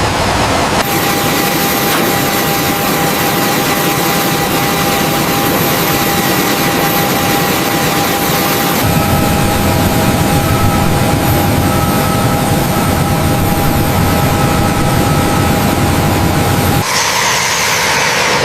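Jet engine running steadily: a loud rushing noise with a thin high whine over it. The sound changes abruptly about a second in, about nine seconds in and near the end, as if cut between takes.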